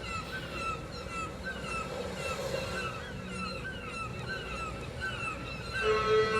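The installation's synchronized sound design playing a train of short, chirping bird-like calls, about three a second, over a low crowd-and-park murmur. Near the end a steady sustained tone with overtones comes in underneath.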